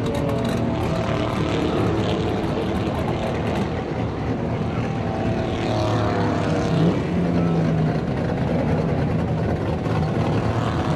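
Truck engines running loudly and steadily, with the pitch rising and falling around the middle.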